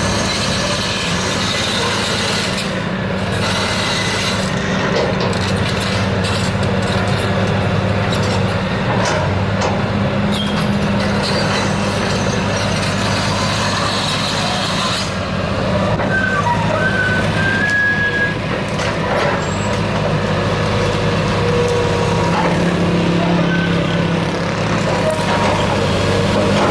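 Dump truck diesel engines running steadily, with a deep, even drone. A few short high squeaks come about two-thirds of the way through.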